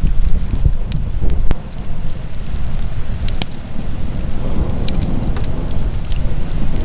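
Fire burning in a fireplace: a steady low rumble with sharp crackles and pops scattered through it, one of the louder pops about a second and a half in.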